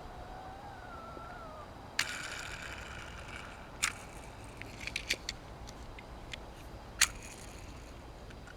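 A die-cast toy car and its plastic packaging being handled: a few short, sharp clicks and taps, the loudest about seven seconds in.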